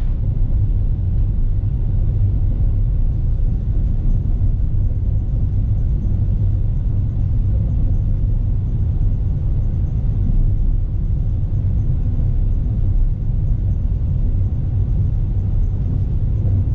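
Car driving along, a steady low rumble of engine and tyres with no change in pace.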